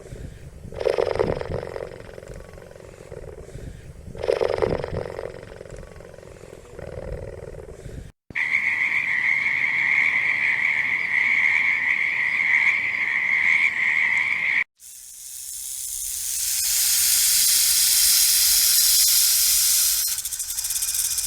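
A run of animal sounds: two loud roars about a second and four and a half seconds in, then after a sudden cut a steady high-pitched call held for about six seconds, then a hiss that swells up and holds.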